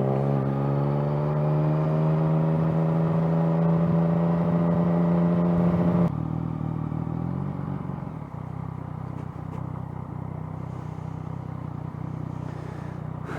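Yamaha FZ-09's inline three-cylinder engine pulling steadily under throttle, its pitch slowly creeping up for about six seconds. Then the throttle closes abruptly and the engine drops to a quieter, lower note.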